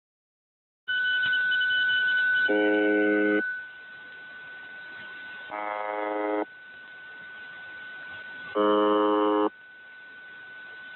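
Shortwave radio reception of the UVB-76 'Buzzer' station: after about a second of dead silence, radio hiss comes in with a steady high whistle over it, and a short, harsh buzz sounds three times, about three seconds apart, the second one weaker.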